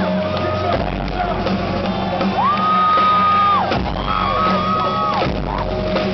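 Rock concert music playing under a cheering arena crowd, with high screams and whoops rising above it; one long held scream near the middle.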